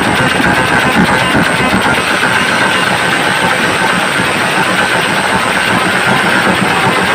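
Very loud, heavily distorted output of large outdoor PA speaker stacks: a dense, steady wall of noise with no clear tune.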